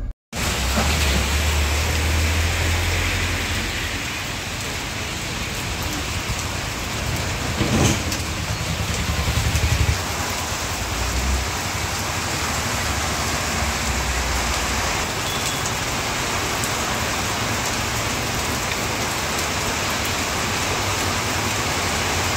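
Heavy rain falling steadily, pattering on a wet street. A low rumble runs underneath for about the first ten seconds and then stops suddenly.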